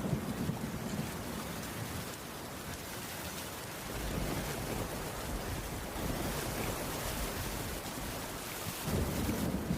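Heavy rain falling steadily, with low rolls of thunder rumbling at the start and again near the end.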